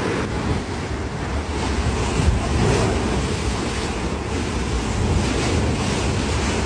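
Waves and rough water washing steadily, with wind buffeting the microphone.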